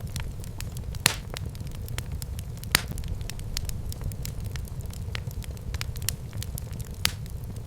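Wood fire burning in a fireplace: a steady low rumble of flames with scattered crackles and pops, two sharper pops at about one second and near three seconds in.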